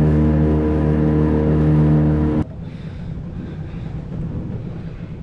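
Small boat's outboard motor running steadily at one pitch. About two and a half seconds in it cuts off abruptly, and a quieter low rumble remains.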